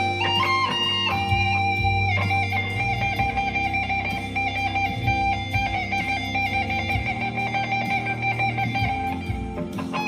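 Electric guitar played through a Blackstar ID15 TVP amp with a Dunlop Cry Baby wah pedal. A few quick note changes give way to one note picked over and over for most of the stretch, and the note changes again near the end.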